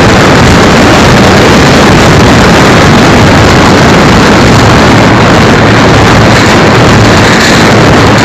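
Radio-controlled Cessna 182 model plane's motor and propeller running steadily, heard through the tiny onboard camera's microphone as a loud, distorted rush of engine noise and wind.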